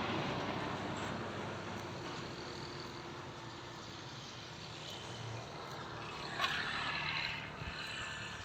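A motor vehicle's engine noise fading away as it moves off, followed by a brief clatter about six and a half seconds in.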